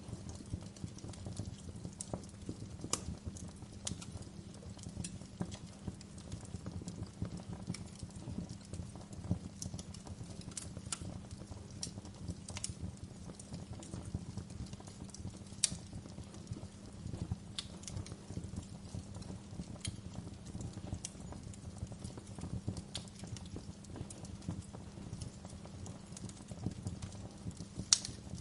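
Wood fire crackling: a steady low rumble with irregular sharp pops and snaps, one loud pop near the end.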